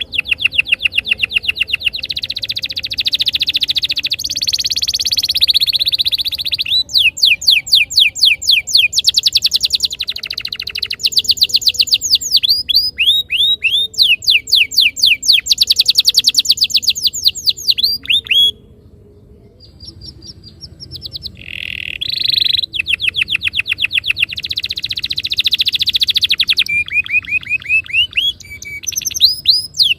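Domestic canary singing long, fast trills of rapidly repeated notes (rolls), pausing for about two seconds past the middle before rolling on.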